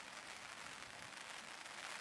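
Steady, faint hiss and patter of rain falling.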